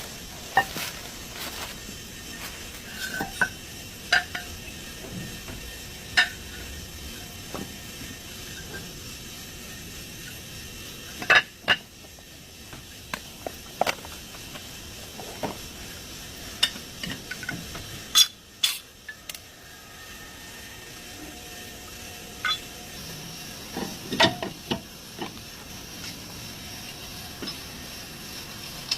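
Metal tools and parts clinking and knocking at irregular intervals during hands-on brake work, over a steady background hiss.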